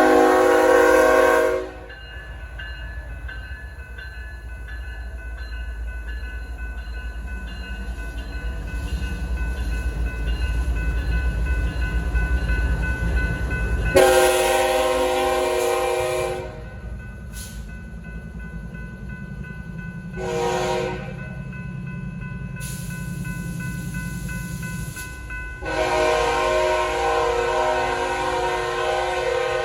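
BNSF freight diesel locomotive horn blowing the grade-crossing signal as three GE locomotives approach the crossing. A blast ends just under two seconds in, a long blast comes about halfway through, then a short one, then a long one held to the end. Between the blasts the crossing bells ring steadily over a diesel engine rumble that grows louder.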